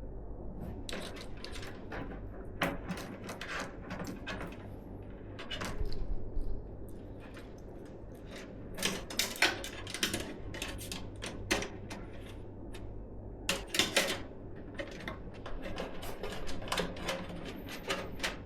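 Irregular clicks, taps and small scrapes of hard plastic and metal PC parts being handled and fitted during assembly, with denser clusters of clicks around the middle and again a few seconds later.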